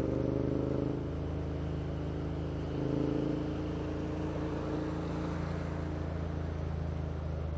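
Motorcycle engine running steadily, rising briefly about three seconds in before settling back.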